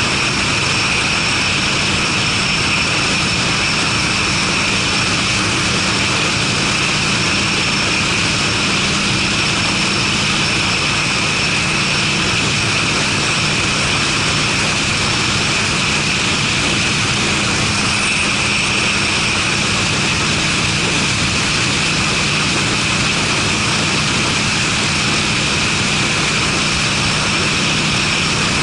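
Harley-Davidson Sportster's V-twin running at a steady cruise through Screamin' Eagle mufflers, a note the owner hears as less dry and heavier in the bass. A dense, even rush of noise sits over the engine with no change in speed.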